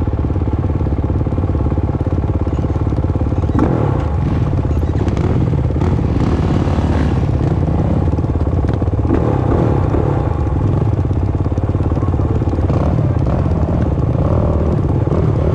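Dirt bike engine running steadily on a motocross track, with a couple of short knocks about four and nine seconds in.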